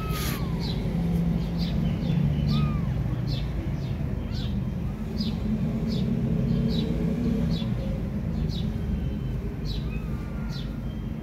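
A steady low rumble, with a bird chirping over and over at a steady pace and a few faint, rising-and-falling mews from very young kittens.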